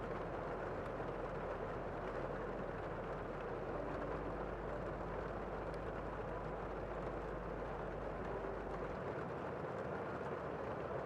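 Steady rain falling outside, heard from indoors: an even, muffled hiss with a low rumble beneath it that drops away about nine seconds in.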